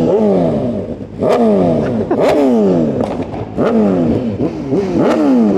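Sport-bike engine, a BMW M1000RR's inline-four, revved in about five quick throttle blips. Each time the revs shoot up and then fall away over about a second, with a few sharp exhaust pops.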